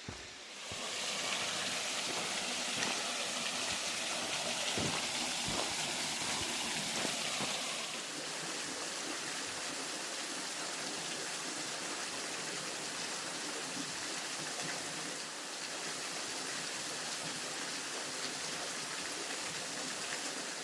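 Small two-tiered waterfall pouring: a steady rush of falling water that swells up about a second in and holds.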